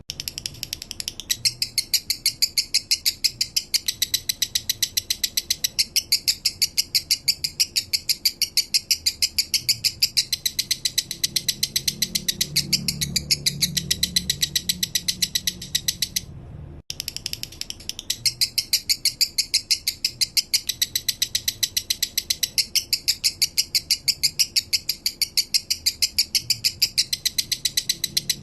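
Male lovebird singing its drawn-out 'minor' song: a long, unbroken run of rapid high chirps, about nine a second, with a pause of about a second just past the middle.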